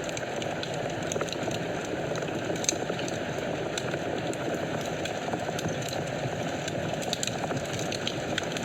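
Fireplace wood fire burning: a steady low rush of flames with small crackles and pops scattered irregularly throughout.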